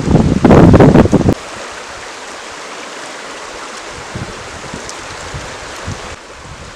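Steady rush of a stream, after a loud, rough rumble that cuts off abruptly about a second and a half in.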